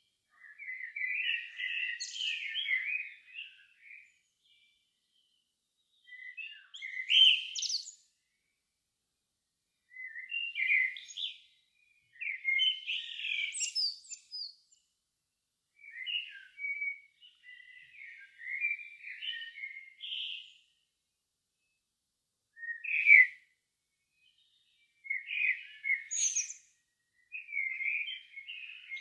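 Songbird song in short, varied warbled phrases of one to three seconds, several ending in a high squeaky flourish, with pauses of about one to two seconds between them.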